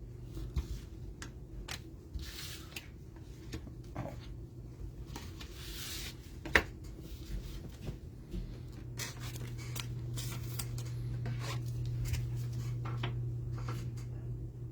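Trading cards and their packaging being handled: scattered light clicks, rustles and scrapes of card stock and wrapper, with one sharper click about six and a half seconds in, over a steady low hum.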